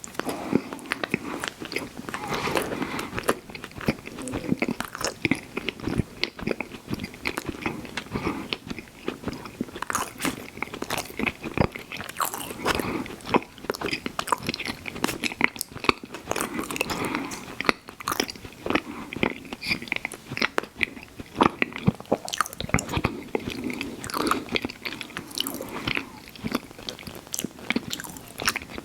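Close-miked eating of an ice cream sandwich: bites and chewing with crunching and many small, irregular wet mouth clicks.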